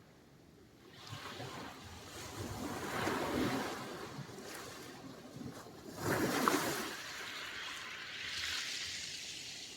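Sea surf: waves breaking and washing onto the shore in swells. One swell builds about a second in, a louder wave breaks about six seconds in, and another washes in near the end.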